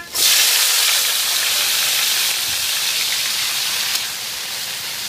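Freshly washed, wet leafy greens dropped into a hot wok: a loud sizzle starts suddenly just after the start and keeps going, easing a little after about four seconds.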